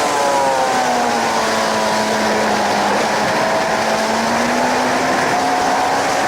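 Suzuki GSX-R 750 K7's inline-four engine under heavy wind rush: the revs fall over the first second or two as the bike slows, hold low, then climb again from about four seconds in as it accelerates.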